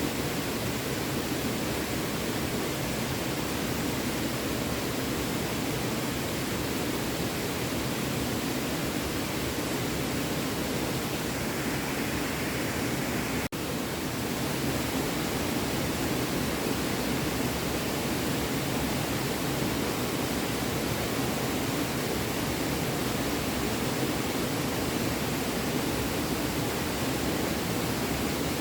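Small stream flowing steadily: a continuous rush of running water, broken by a momentary dropout about halfway through.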